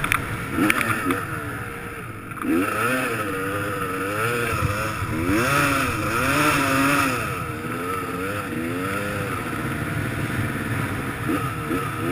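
Dirt bike engine revving up and down over and over, its pitch swinging smoothly, over a steady hiss.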